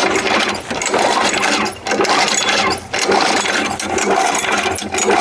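Lawn mower engine being turned over by repeated pulls of the recoil starter without firing, in pulses about a second apart, to blow liquid out of the engine.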